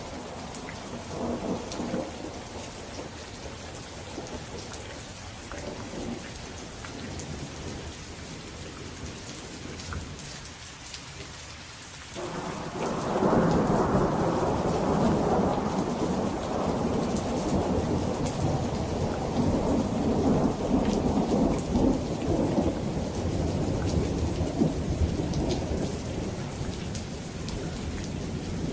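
Steady rain falling, with thunder rumbling. About twelve seconds in, a loud roll of thunder breaks in and keeps rumbling to the end.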